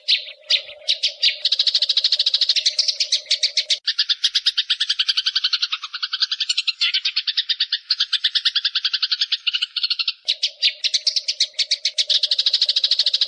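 Bird chirping in long, fast trains of evenly repeated high notes, about ten a second, with a steady low hum underneath in the first few seconds and again near the end.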